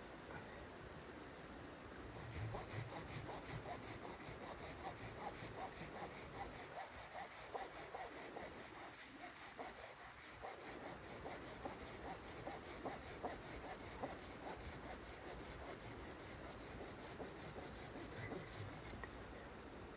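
A hand saw cutting wood in steady back-and-forth strokes, starting about two seconds in and stopping near the end.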